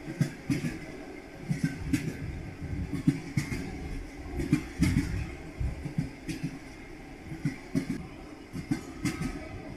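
Train wheels clattering over rail joints: sharp knocks in uneven clusters over a steady low rumble.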